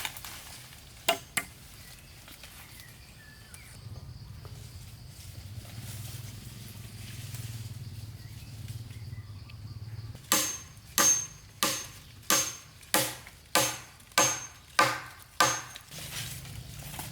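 A blade chopping wood: two knocks about a second in, then a run of about nine sharp, evenly spaced blows at a little under two a second in the second half.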